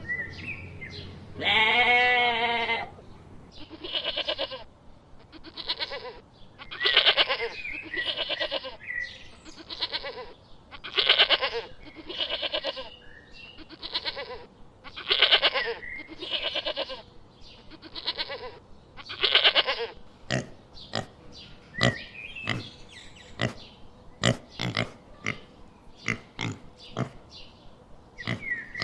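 Sheep or goats bleating over and over, a call every second or so. From about twenty seconds in, the calls give way to short, sharp grunts, several a second, typical of a pig.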